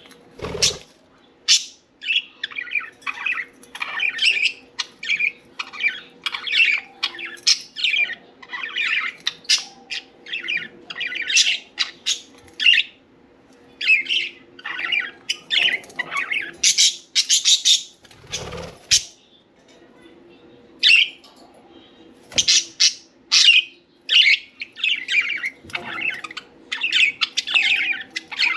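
Several budgerigars (parakeets) chirping and chattering almost continuously in quick, warbling calls, with a couple of sharp knocks, one near the start and one about two-thirds of the way through.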